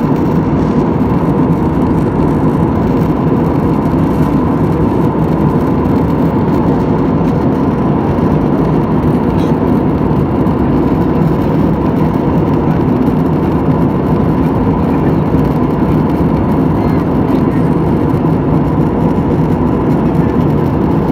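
Steady jet airliner cabin noise: engines and rushing airflow make a constant loud drone, with a faint steady hum running through it.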